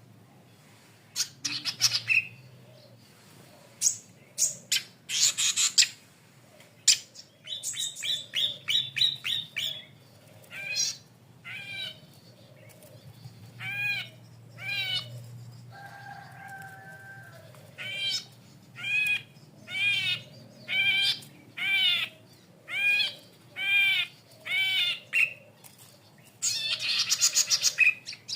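Golden-headed cisticola (cici padi kepala merah) singing. Long buzzy notes alternate with series of short, clear arched notes, mostly about one a second, with a quicker run of several notes a second in places.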